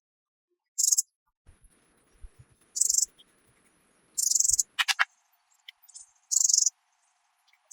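Insects chirping in short, high-pitched bursts, four in a row about one and a half to two seconds apart, with a quick run of sharp clicks about five seconds in.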